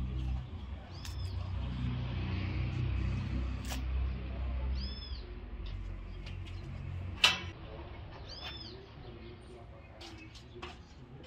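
A bird calling three times, a short arched chirp every three to four seconds, over a low rumble that fades after the first half. A sharp click about seven seconds in is the loudest sound.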